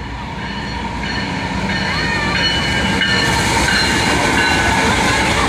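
Train running on the tracks, a steady rumble and rail noise that grows steadily louder as it approaches.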